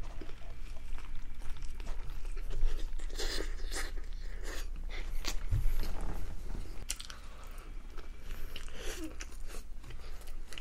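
A person biting into a folded beef burger and chewing it close to the microphone, with many small irregular mouth clicks.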